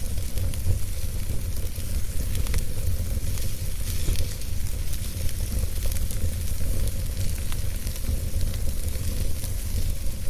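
Fire burning in a fireplace, crackling with scattered sharp pops over a steady low rumble.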